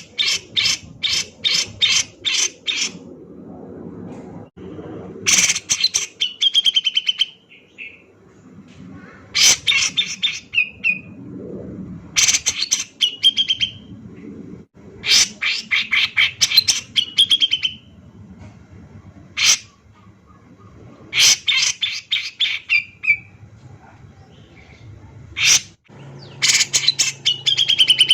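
Grey-cheeked bulbul (cucak jenggot) singing hard: bursts of rapid, repeated sharp notes, each burst ending in a slurred lower note, coming again every few seconds.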